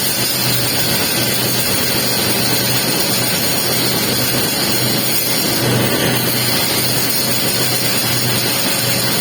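Electric welding arc crackling and sizzling steadily while the capping pass is laid on a pipe joint, with a steady low hum underneath.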